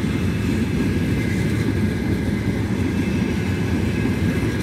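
Trenitalia Frecciarossa high-speed train moving along a station platform track: a steady low rumble of wheels on rail.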